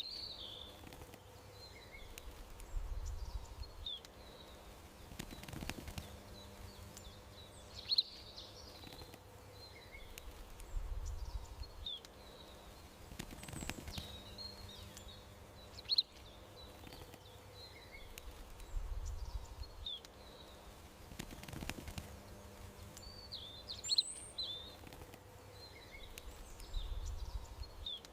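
Garden birds chirping in short, scattered high calls over a faint steady hum, with a sharp click and a low rumbling swell recurring about every eight seconds as the ambience repeats on a loop.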